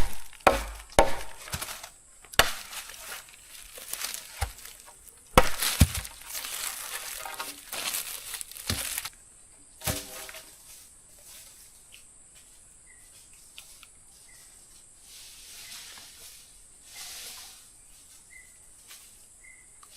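Wood being chopped, several sharp knocks in quick succession, followed by a stretch of rustling and one more knock about ten seconds in. After that it goes quiet apart from a few faint short chirps.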